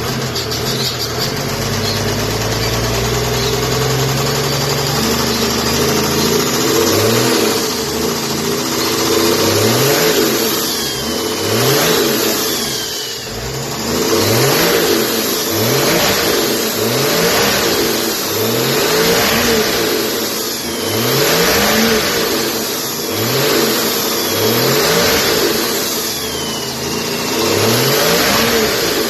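Toyota 1HD-T 4.2-litre turbo-diesel straight-six idling, then revved again and again in short blips about once every second and a bit. A falling turbo whistle follows several of the revs as the turbo spools down.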